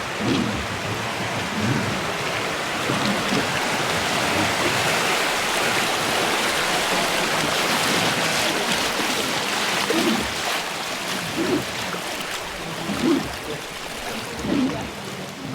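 River rapids rushing and splashing around the boat, growing louder toward the middle and then easing off.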